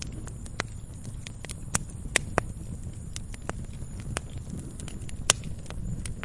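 Wood fire crackling: irregular sharp pops and snaps over a low, steady rumble of flame, with the loudest pop about five seconds in.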